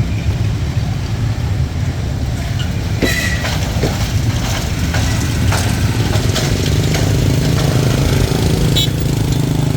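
A loud low rumble of a train running past, with scattered clicks and clatter. From about seven seconds in, a steady small-engine hum, like a motorbike running, rises under it.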